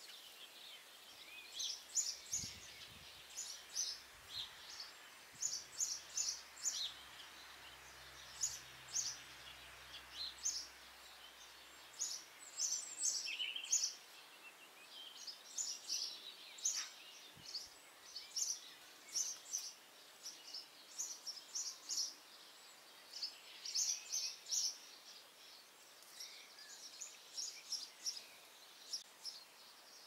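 Birds chirping and twittering outdoors in short, high, quick clusters of notes again and again, over a faint steady hiss, with a faint low hum in the first half.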